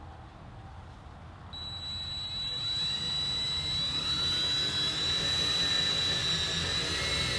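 Power drill starting about a second and a half in and running with a steady high whine, its pitch climbing as it gets up to speed, as it bores a hole through the car's sheet-metal trunk lid.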